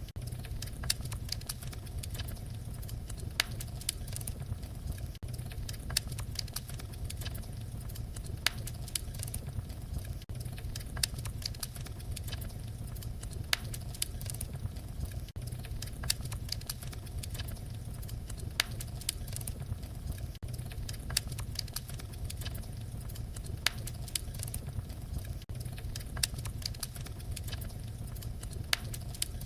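Wood fire crackling: a steady low rumble of burning under frequent, irregular sharp crackles, with occasional louder pops.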